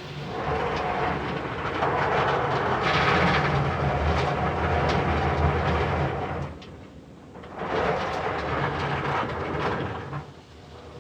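Rotating cloth brushes of a D&S IQ soft-touch car wash scrubbing over the car, heard from inside the cabin as a rhythmic slapping rush over a steady motor hum. It dies down for about a second partway through, comes back, and fades again near the end.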